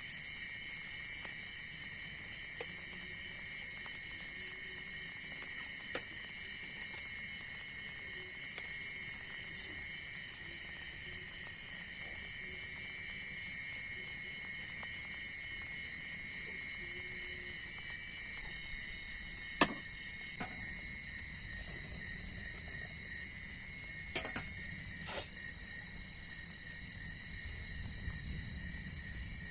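Evening forest insect chorus: steady, shrill tones at several pitches running throughout. A few sharp clicks or knocks come near the two-thirds mark.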